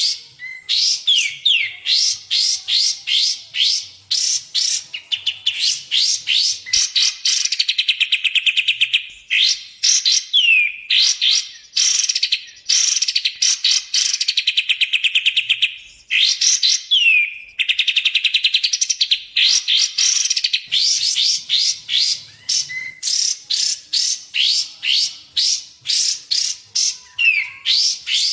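Cage-bird song on a masteran tutoring recording of kapas tembak and cucak jenggot: a nonstop, loud string of sharp, quick chirps, broken by several runs of very fast trilling and a few short downward-sliding whistles.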